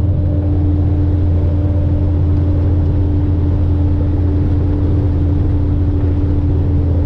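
Steady engine and road drone inside a moving truck's cab, holding an even low hum at a constant speed with no revving.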